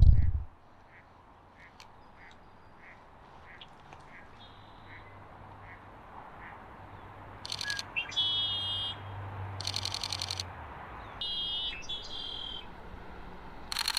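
Sony A6100 camera shutter firing rapid bursts in continuous shooting, three bursts in the second half, while ducks quack. Before the bursts, a soft call repeats about every half second.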